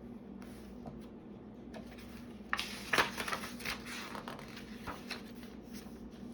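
Paper being handled, a short cluster of rustles and light taps starting about two and a half seconds in, over a steady low electrical-sounding hum.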